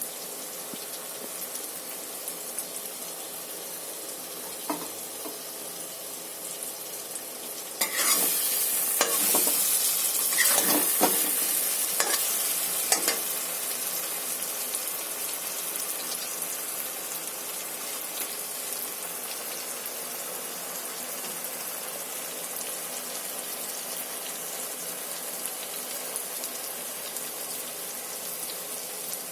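Food frying in hot oil in a pan: a steady sizzle that jumps louder about eight seconds in, with a few short knocks of stirring over the next few seconds, then slowly settles back to a quieter steady sizzle.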